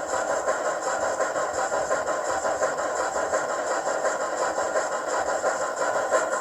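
Hornby Black 5 model locomotive's sound decoder playing steam exhaust chuffs through its small onboard speaker, a rapid steady beat with the locomotive running at speed.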